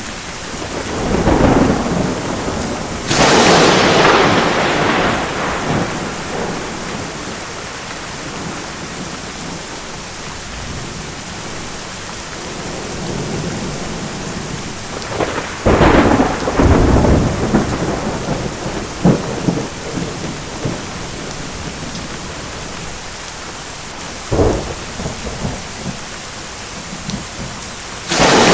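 Steady rain with rolling thunder: a long loud rumble a few seconds in, another crash with rumbling about halfway through, a short crack later on, and a fresh thunderclap beginning near the end.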